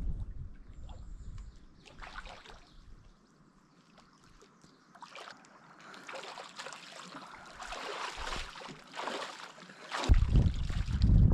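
Canoe paddle strokes: water splashing and trickling off the blade in irregular strokes, growing busier in the second half, with a low rumble of wind on the microphone near the end.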